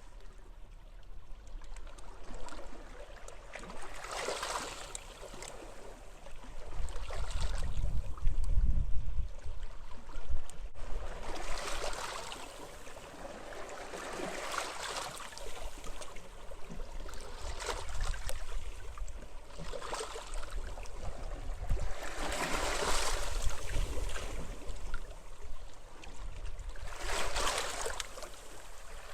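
Small waves washing in on a sandy shore, each swelling and falling away every few seconds. Wind rumbles on the microphone underneath, strongest about a third of the way in.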